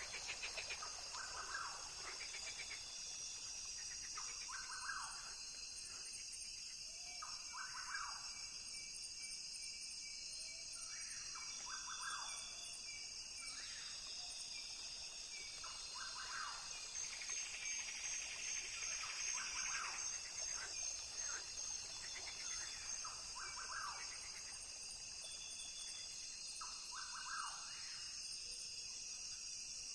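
Rainforest ambience: a dense, steady high-pitched chorus of insects, with short calls from a bird or frog repeating every couple of seconds.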